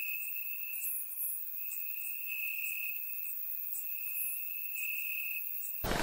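Night ambience of crickets trilling: one steady high trill that swells and fades every couple of seconds. Right at the end a loud drum hit starts the music.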